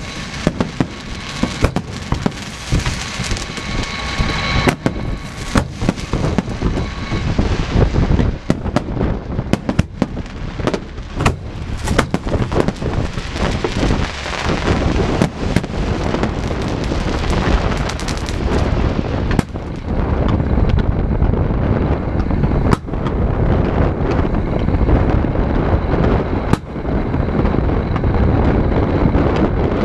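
Aerial fireworks bursting in quick succession: many sharp bangs over continuous crackling, with a steady whistling tone for a few seconds near the start. The crackle grows denser and louder over the last third.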